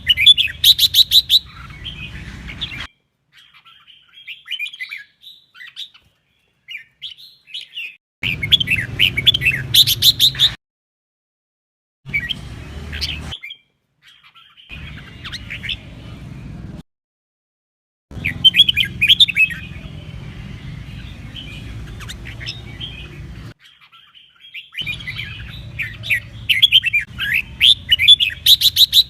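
Red-whiskered bulbul singing: bursts of quick, warbling chirps lasting a few seconds each, broken by several abrupt silences.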